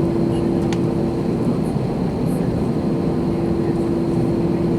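Steady cabin noise inside an Airbus A321: engine and airflow noise with a constant humming tone running through it.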